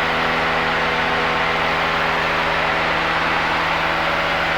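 Cessna 172's piston engine and propeller running at a steady drone in flight, heard from inside the cabin.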